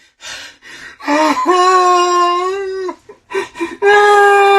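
A man wailing in distress: two long, loud held cries, the first about a second in and the second near the end, with short sobbing breaths between.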